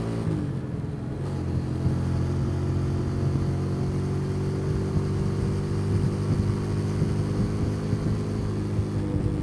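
Motorcycle engine heard from the rider's seat: the revs drop in the first half second, as on closing the throttle or a gear change, then it runs steady, the pitch creeping slowly up.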